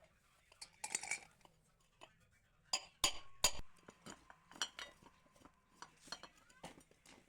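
Metal ceiling-fan parts and hand tools clinking and knocking on a workbench during a bearing change: a string of irregular sharp taps and clinks, loudest about three seconds in.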